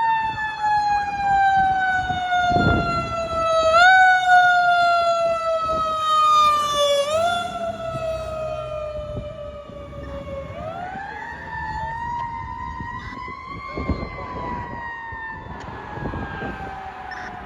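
Fire apparatus siren wailing on an emergency response. Its pitch slides slowly down and is kicked back up twice, then winds slowly up again and falls away. Low vehicle rumble sits underneath.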